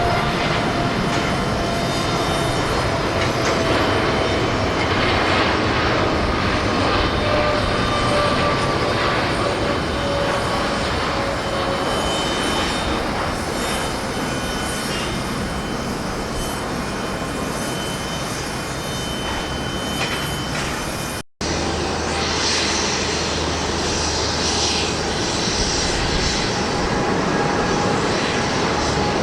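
Jet airliner engines at takeoff power: a loud, steady engine noise with a whine that slowly falls in pitch as the aircraft goes by. About 21 seconds in, the sound cuts off abruptly and is replaced by another airliner's takeoff engine noise with a stronger high hiss.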